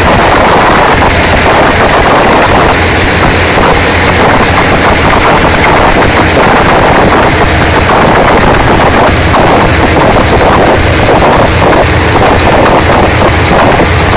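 ALCO 251B turbocharged four-stroke diesel engine running steadily at close range. It is very loud, with a dense, rapid beat of firing pulses over a low hum.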